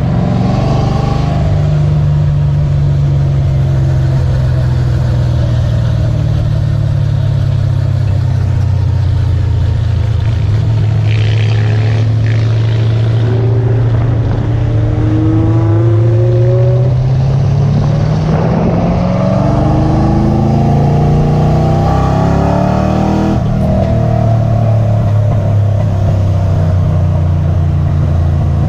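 Car engine droning steadily at speed. About two-thirds of the way through its pitch climbs for several seconds as it accelerates, then drops back suddenly.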